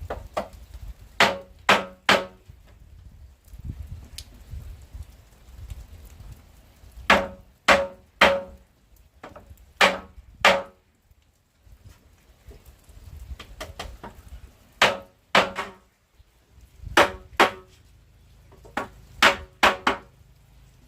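Hand tool striking wood: sharp blows in groups of two or three, about half a second apart, each with a short ring, and pauses of a few seconds between groups.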